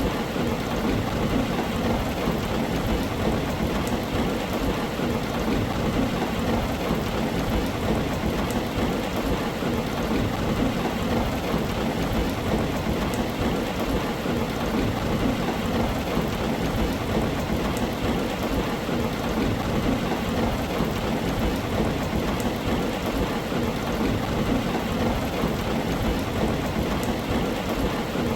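Steady heavy rain drumming on a tin roof, an even unbroken wash of sound with a low rumble of thunder underneath.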